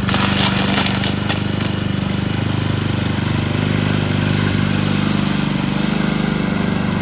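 Honda GCP160 single-cylinder overhead-cam lawnmower engine running steadily with ketchup in its crankcase in place of oil. A brief burst of noise rides over it in the first second and a half.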